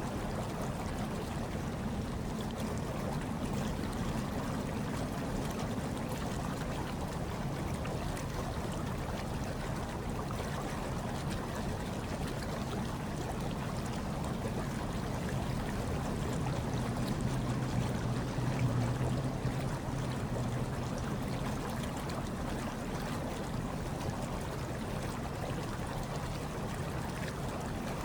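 Hot tub water churning and bubbling steadily, with a low rumble underneath that swells slightly about two-thirds of the way through.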